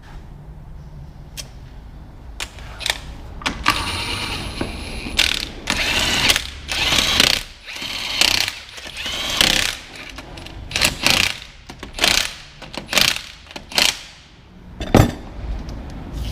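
Impact wrench running in a series of short bursts, about a dozen, each half a second to a second long, with a few sharp metal clicks before them in the first few seconds.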